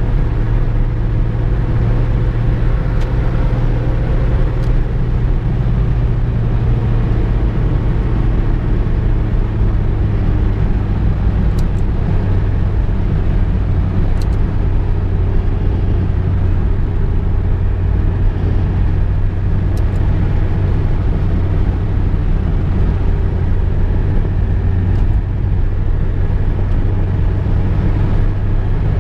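Inside the cabin of a VW Golf Mk2 driving at steady speed: a constant low engine drone and road rumble, with a few faint ticks.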